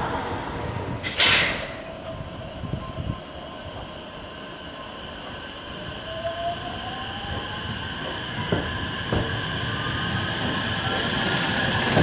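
Electric train accelerating: a short burst of air hiss about a second in, then a rising motor whine and wheels clicking over rail joints, growing louder toward the end.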